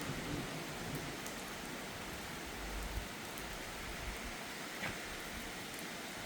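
Heavy rain falling steadily, a constant hiss with a few scattered drip clicks. A brief low rumble comes about halfway through.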